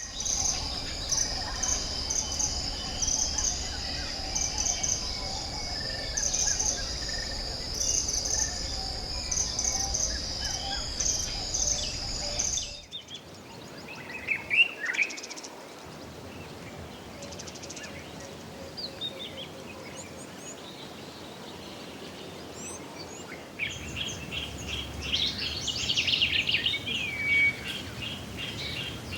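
Rainforest ambience of insects and birds. A steady, pulsing high insect drone with bird calls runs until it cuts off about 13 seconds in. After that come scattered chirps and whistles, with a dense burst of bird chattering near the end.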